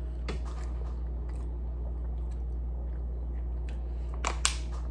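Close-up mouth sounds of chewing food, soft wet clicks over a steady low hum. About four seconds in comes a short burst of sharper crackles as a plastic water bottle is drunk from.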